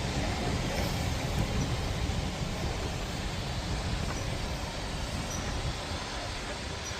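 A train running past: a steady rumble that slowly fades.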